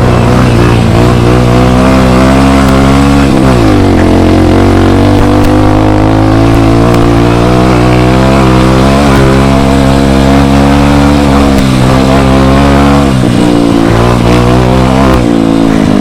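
Dirt bike engine running loud and close while the bike is ridden up a trail. The pitch falls about three and a half seconds in, holds steady, dips again about thirteen seconds in and climbs again near the end.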